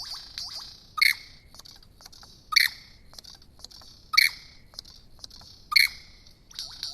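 Superb lyrebird singing: four loud, harsh notes about a second and a half apart, over a run of quick, rising chirps.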